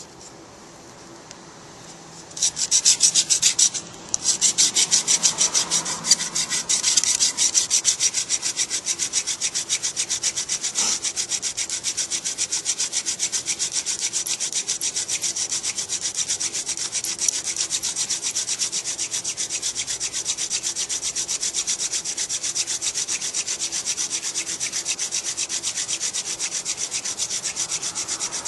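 Hand drill friction fire: a Cretan date palm flower-stalk spindle spun back and forth between the palms on an arborvitae hearth board, wood rubbing on wood in a fast, even rhythm. It starts about two seconds in, breaks off briefly, then runs on steadily.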